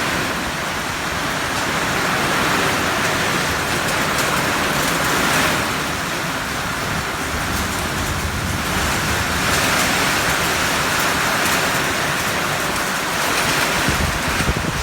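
Heavy storm rain pouring down in a steady hiss that swells and eases every few seconds.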